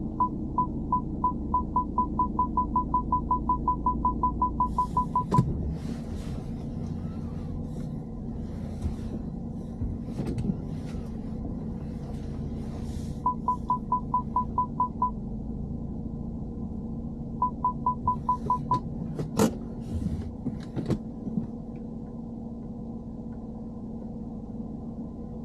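Parking sensor beeping at one high pitch, the beeps coming faster and faster for about five seconds, then two shorter runs of beeps later, over a steady engine hum heard inside the car. A few sharp knocks and brief rustles fall between the beep runs.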